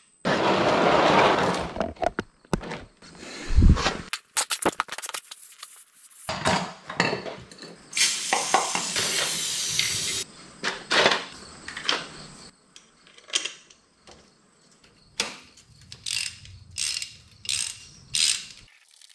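Hand tools working on the motorcycle's engine covers: a ratchet wrench clicking and metal parts knocking and clinking, with two stretches of hissing.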